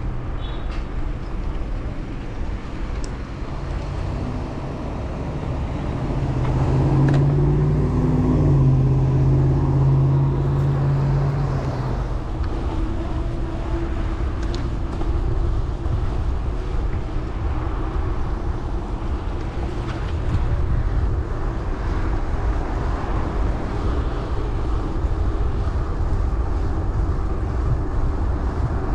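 Wind rushing over the microphone of a chest-mounted action camera while riding a gravel bike, with a vehicle's steady engine hum loudest for several seconds about a quarter of the way in.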